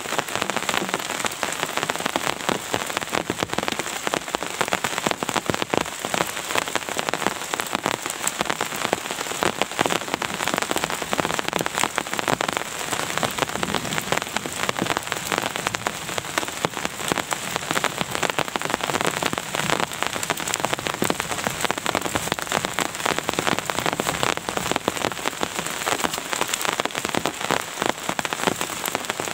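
Steady heavy rain: dense, constant drops striking a surface, with no let-up or change in strength.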